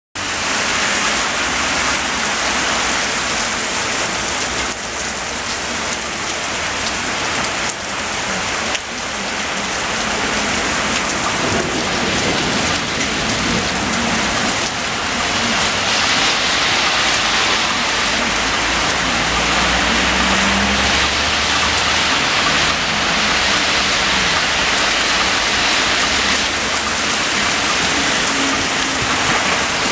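Heavy, intense rain pouring down steadily, a dense hiss of rain hitting surfaces from a high-precipitation supercell downpour.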